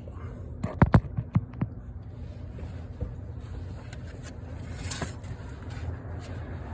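A quick run of sharp metallic clicks and clinks from hand tools about a second in, as the starter's upper mounting bolt is being tightened, then a couple of softer knocks over a steady low hum.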